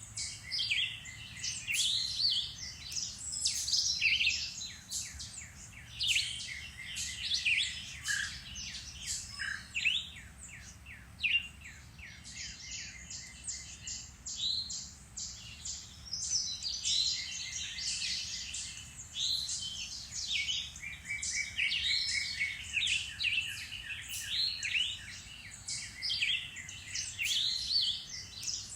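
Several woodland songbirds singing and chirping at once, a busy chorus of overlapping short calls and trills.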